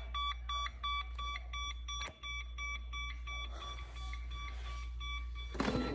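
Electronic device beeping: a fast, even run of short alarm-like beeps that stops about two seconds in. A louder noise comes near the end.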